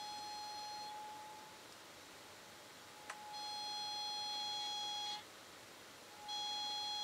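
Nokia Lumia 1020 camera giving a steady, high-pitched squeaky whine in stretches of about two seconds with short breaks between, with a small click just before the second stretch. It is a new, abnormal noise: a fault in the phone's camera.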